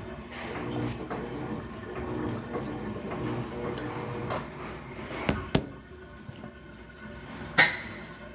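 Water running into the tub of an Electrolux LF75 top-loading washing machine, over a low steady hum. Two sharp knocks come about five seconds in, and a louder single clack near the end.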